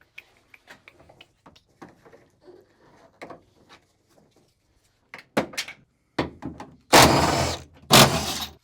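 Plastic interior trim being pried and pulled out of a car: faint clicks and taps at first, then a few sharper knocks and two loud scraping rattles, each about a second long, near the end.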